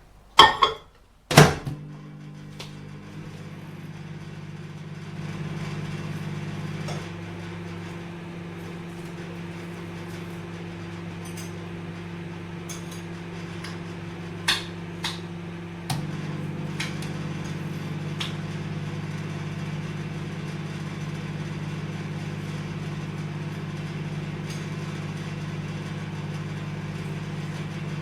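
Microwave oven: a couple of sharp clunks and clicks, then it starts up and runs with a steady low hum. The hum steps up and down a few times, and there are a few light clicks about halfway through.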